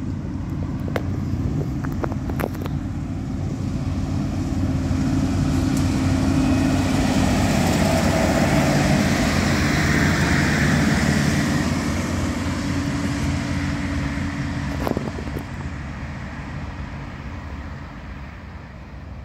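Two-carriage diesel railcar pulling away and passing by, its engine running with wheel and rail noise. The sound grows louder to a peak about halfway through, then fades away, with a few sharp clicks in the first seconds and one more late on.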